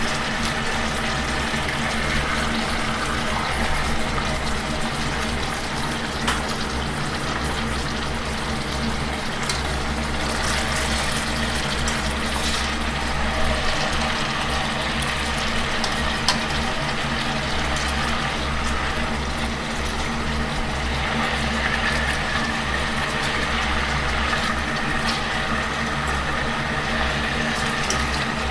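Sauce simmering in a frying pan on a gas stove: a steady bubbling hiss over a low, even hum, with a few faint clicks.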